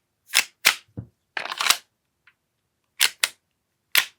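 Sharp mechanical clicks and snaps from an AAP-01 gas airsoft pistol being worked and test-fired, with a short gas hiss about a second and a half in. The pistol's upper is not seating properly on the lower, a misalignment that can make it shoot the gas out.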